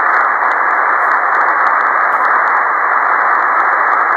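Ham radio receiver putting out HF band noise with no station on frequency: a steady hiss of static.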